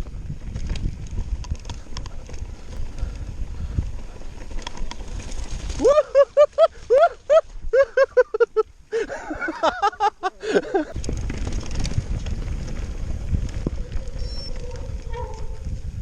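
Mountain bike running down a rough trail: low rumble of tyres and wind on the microphone. About six seconds in the rumble drops away and a rapid string of short squeaky chirps follows for about five seconds, then the riding rumble returns.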